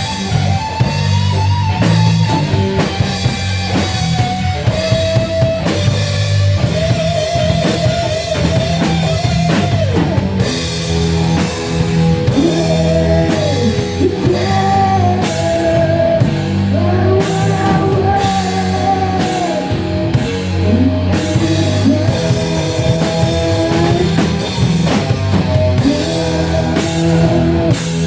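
Rock music played by a band, with drum kit, electric guitar and a melodic line that may be a lead vocal.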